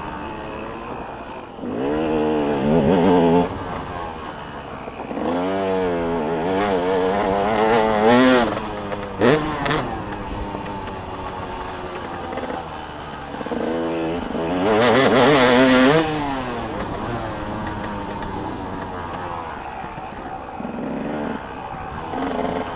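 Motocross dirt bikes racing past, engines revving hard with the pitch climbing and dropping as the riders work the throttle and shift. Three louder surges come through, the loudest about two-thirds of the way in, over the steady drone of other bikes on the track.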